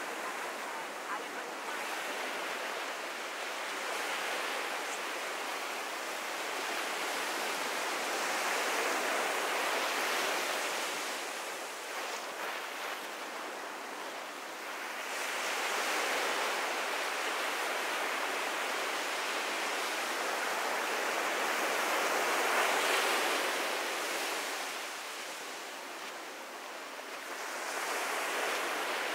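Ocean surf washing onto a beach in Kihei, South Maui, a steady rush that swells and ebbs in slow surges several seconds long.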